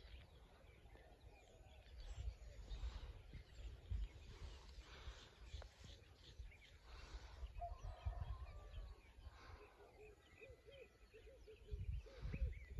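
Faint outdoor bird calls over a low, uneven rumble, with a run of short, quickly repeated calls in the last couple of seconds.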